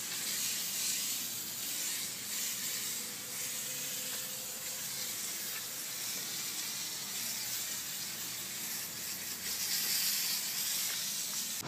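Steady, high-pitched hiss with no clear rhythm or strokes.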